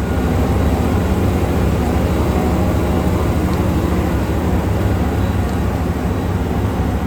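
A self-propelled potato harvester running at work, a loud, steady mechanical drone.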